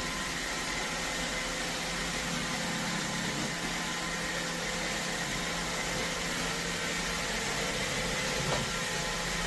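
iRobot Roomba Combo (Y0140) robot vacuum running on the floor: a steady whir from its suction motor and brushes, with a broad hiss and a faint hum.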